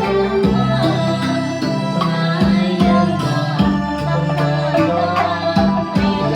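Band music from a Cambodian band playing a Khmer song, with sustained pitched instruments over a steady drum beat.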